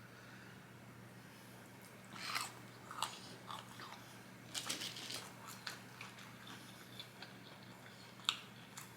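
A person eating close to the microphone: scattered crunchy bites and chewing, starting about two seconds in, with the loudest crunches around two and a half and five seconds in.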